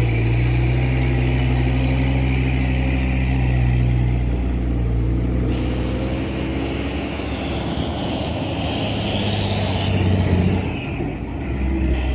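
Truck engine running steadily, its note dropping in pitch about four seconds in and shifting again near the end.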